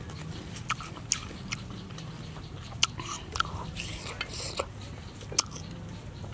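Chewing of firm, crisp gooseberries dipped in brahok and chili sauce: a run of sharp, irregular crunches as the fruit is bitten and chewed.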